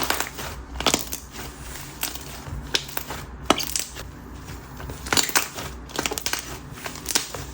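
Hands kneading and squeezing a thick butter-texture clay slime with small wax pieces mixed in, making irregular sharp clicks and crackly pops with no steady rhythm.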